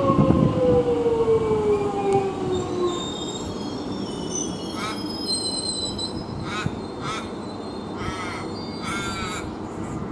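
Metro X'Trapolis electric train slowing at the platform, its motor whine falling steadily in pitch over a rumble. Several short high squeals follow in the second half.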